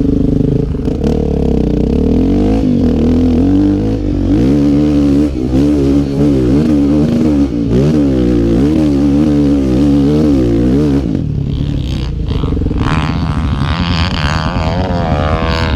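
Dirt bike engine revving hard, its pitch swinging up and down again and again as the throttle is worked. Near the end a higher, thinner engine note rises and falls.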